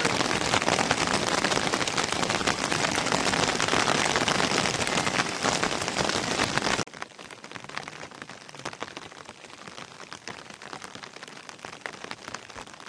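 Heavy rain falling, a dense patter of drops. About seven seconds in it cuts abruptly to much quieter rain with scattered drips.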